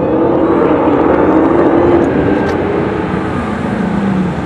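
A car engine running hard, its pitch rising for about two seconds and then dropping.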